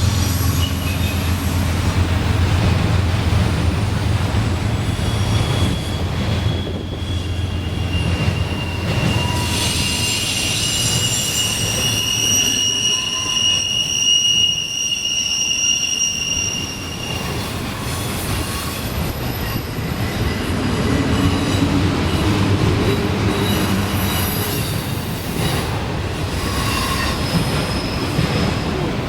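CSX freight train's cars rolling past with a steady low rumble and wheel clatter; for several seconds in the middle, steel wheels squeal against the rails in high, steady tones.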